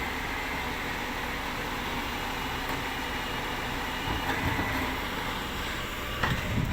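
Rubbish truck engine running steadily, with a faint steady whine over the rumble and a sharp click near the end.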